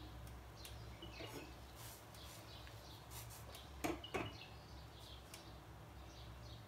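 Faint birds chirping now and then, over a low steady hum, with two short knocks in quick succession about four seconds in.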